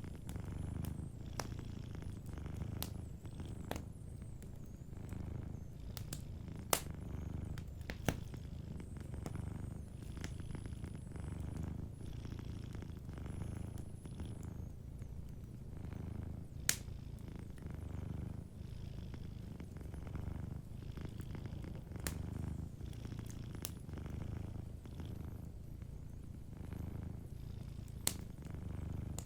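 Domestic cat purring steadily and low, with a wood fire crackling over it: scattered sharp clicks and a few louder pops.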